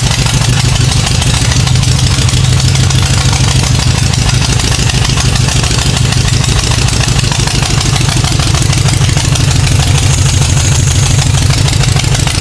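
Porsche 914 engine idling steadily, running on its first start after sitting for 15 years.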